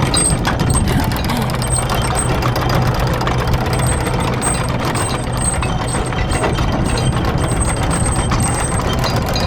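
A boat's engine running steadily with a low hum, with a thin high-pitched tone beeping on and off over it.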